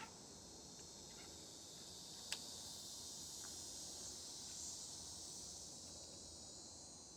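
Insect chorus, a steady high-pitched trilling that swells a little through the middle, with one sharp click about two seconds in.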